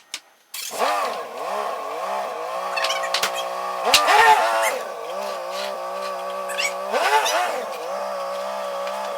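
Nissan Skyline R32's RB25DET turbocharged inline-six coming to life about half a second in and settling to a steady idle. It is blipped up in revs and back down twice, about three seconds apart.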